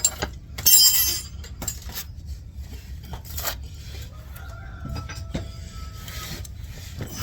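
Metal hand tools and parts clinking and clattering during suspension work under a car: a sharp clink at the start and a brief jingle of metal about a second in, then scattered lighter knocks and scrapes.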